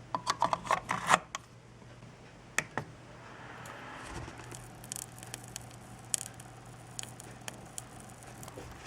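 Laptop charger plugged into a 220 V wall socket giving a steady low electrical buzz, with a quick run of sharp crackling clicks in the first second or so, two more a couple of seconds later and scattered fainter crackles after that. The buzz is the sign of a loosely connected wire in the wall socket.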